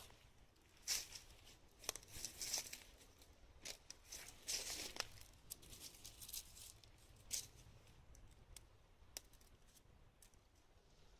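Irregular crackling with sharp snaps and short crinkly bursts, spaced unevenly: a wood fire burning inside a pail can.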